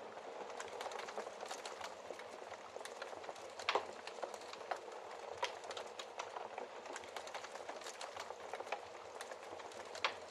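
Fire crackling in a fireplace: a steady bed of small crackles with scattered sharper pops, the loudest about three and a half seconds in and another near the end.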